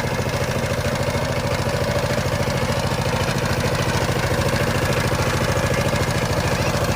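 Diesel power tiller engine running steadily after starting, with rapid, even firing beats.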